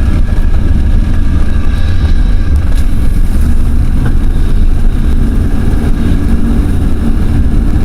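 Ford F-350 pickup truck running, heard from inside the cab: a steady low rumble of engine and road noise.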